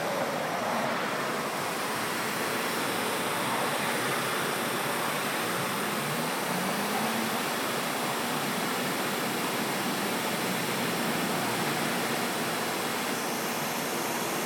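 Steady rushing noise of road traffic going by.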